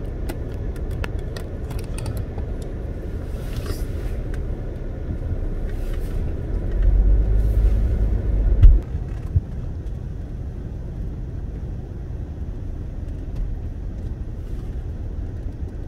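Low, steady car rumble. It swells louder for about two seconds near the middle, then drops off abruptly, with a few faint clicks scattered through it.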